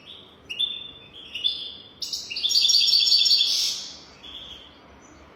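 European goldfinch singing: a few short chirps, then a loud, fast trill about two seconds in that lasts under two seconds.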